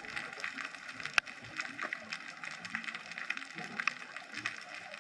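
Underwater ambience picked up by a GoPro in its waterproof housing: a dense, constant crackle of small clicks, with one sharper click about a second in.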